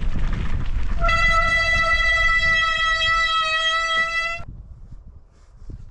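Bicycle brakes squealing as the bike slows to a stop: a loud, steady high-pitched squeal over the rattle of tyres on the trail, held for about three seconds and then cutting off suddenly, after which the riding noise is gone.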